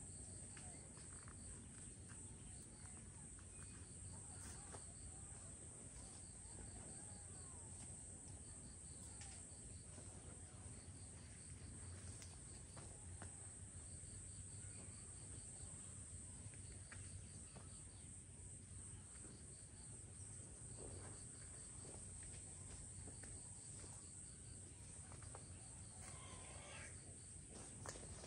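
Faint insect chorus: a steady high buzz with repeated trains of rapid chirps, and a few faint bird calls.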